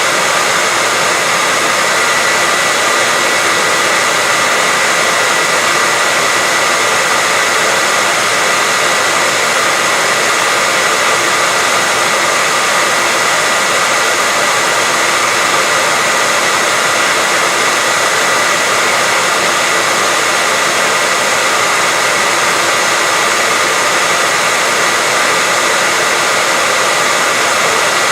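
Continuous white-noise hiss, steady and unchanging, weighted toward the upper range, with a faint steady high whine running through it.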